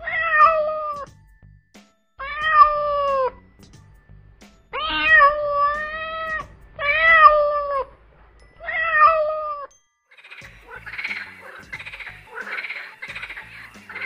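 Domestic cat meowing five times, each a long drawn-out meow of about a second, roughly two seconds apart. From about ten seconds in, a quieter, rough, rapidly repeated sound of another kind takes over.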